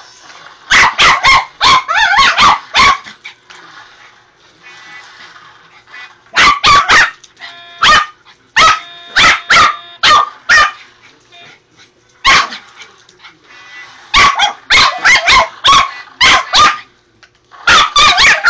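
Dog barking excitedly in rapid runs of several sharp barks, with short pauses between the runs.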